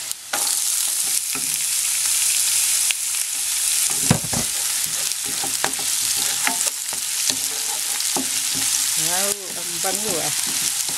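Chopped onion and garlic sizzling loudly in hot olive oil and salmon fat in a frying pan, the sizzle jumping up just after the start as the onion goes in, while a wooden spatula stirs and scrapes the pan. A single knock about four seconds in.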